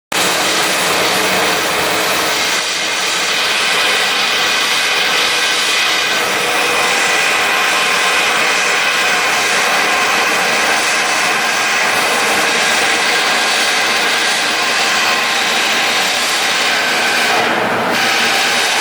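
Steady, loud whirring machinery noise with several whining tones, from shipbuilding work on a steel hull block.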